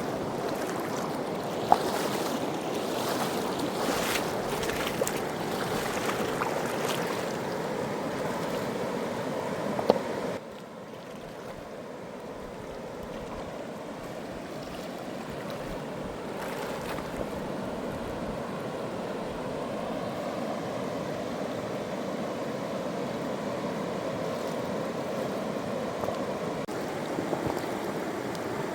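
Fast-flowing mountain river rushing steadily, with two sharp clicks in the first ten seconds. About ten seconds in the rush drops abruptly to a quieter level and carries on.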